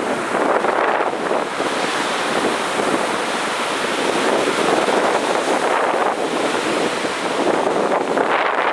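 Heavy ocean surf breaking continuously on a beach, a dense steady wash that swells and eases slightly.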